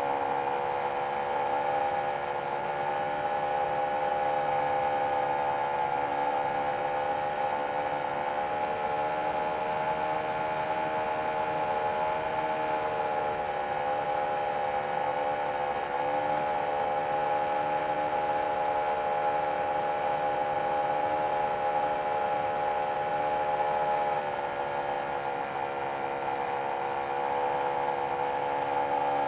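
Nitro glow engine of an RC model airplane running steadily at high throttle, its pitch wavering slightly as the throttle shifts.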